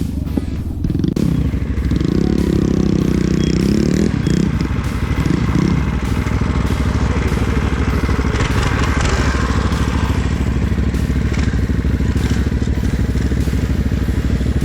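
Small single-cylinder mini bike engine running while being ridden off-road, with clattering and knocks over rough ground.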